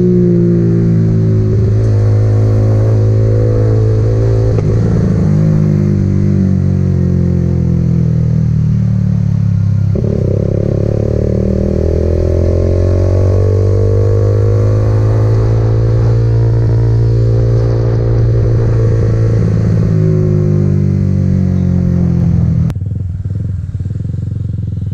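Motorcycle engine running under way, its pitch falling and rising as the rider eases off and opens the throttle. Near the end the engine note drops suddenly to a quieter, steady level.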